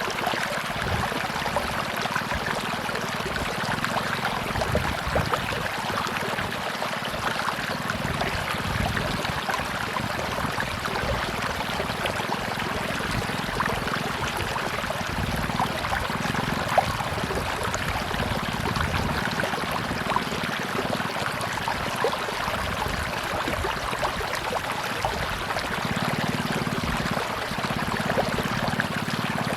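Tropical river flowing: a steady rush of water with many small splashes.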